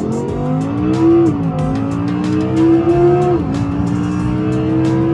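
Audi R8's naturally aspirated V10 under full-throttle acceleration. It runs up through the gears with quick upshifts about a second in and again near the middle, and the pitch climbs more slowly after each shift as speed builds.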